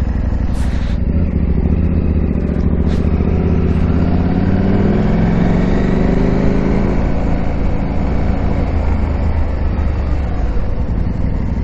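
KTM 890 Adventure R's parallel-twin engine running while riding, rising in pitch as it accelerates from about four seconds in, then levelling off.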